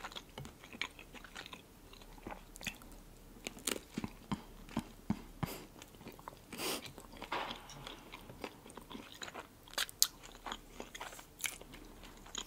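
Close-miked eating sounds: biting into a piece of bread topped with red caviar and chewing it, with many small sharp clicks.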